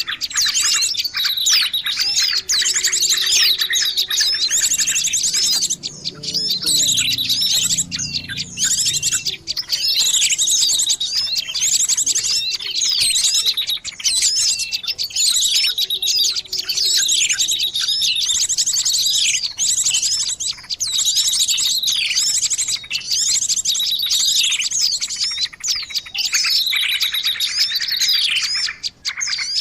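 Dense chorus of many small songbirds chirping and trilling over one another without pause: a bird-lure recording played to draw small birds in for trapping.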